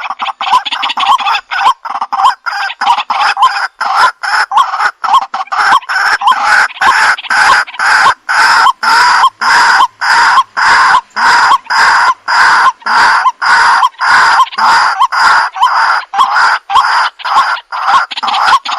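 Waterhen (jal murgi) calling: a loud, unbroken run of short repeated notes, about three a second.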